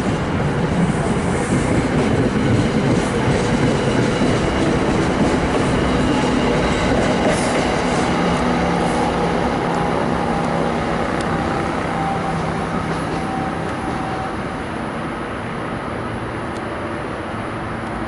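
NJ Transit commuter train's coaches rolling along the platform and pulling away down the line: a steady rumble of wheels on rail that fades over the last few seconds as the train recedes.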